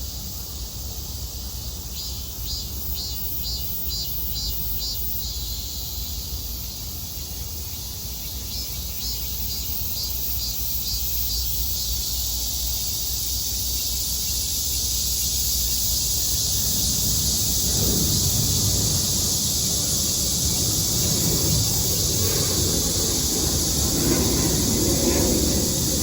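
Steady high drone of cicadas that slowly swells, with rows of short repeated chirps in the first half. About two-thirds of the way in, a low rumble of an approaching vehicle starts and grows louder.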